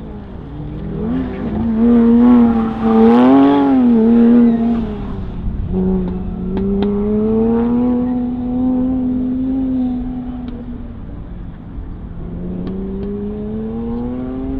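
A Porsche 911's engine revving up and down through an autocross cone course, its pitch rising and falling with each burst of throttle. It is loudest in the first few seconds, with a quick rev and drop, and climbs again near the end.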